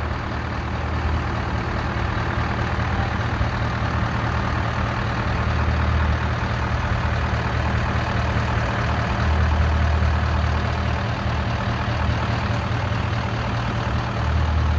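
Heavy truck's diesel engine idling steadily, a deep low hum that swells now and then.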